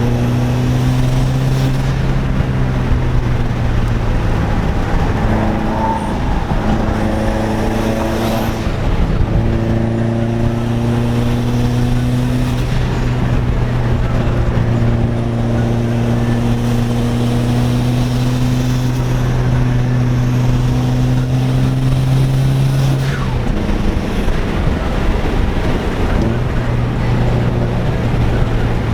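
A car's engine and exhaust droning steadily at speed, the pitch drifting slightly up and down with the throttle. The drone drops away briefly about three-quarters of the way through, then picks up again.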